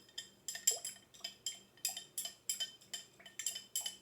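A stirring utensil clinking against the side of a jar as oil, paint water and glitter are stirred, about three ringing clinks a second.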